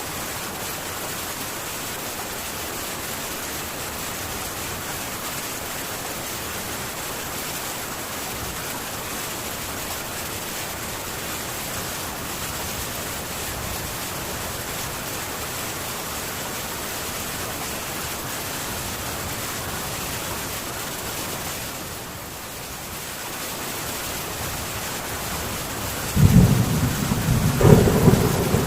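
Heavy rain falling steadily on a metal tin roof, easing slightly for a moment past the middle. Thunder rumbles in loudly near the end.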